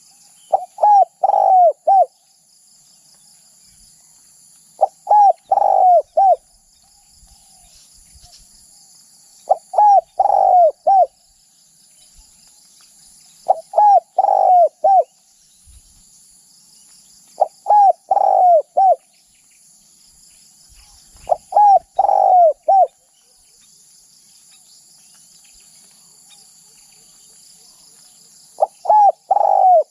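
Spotted dove cooing: a short phrase of three or four coos, repeated about every four seconds, seven times.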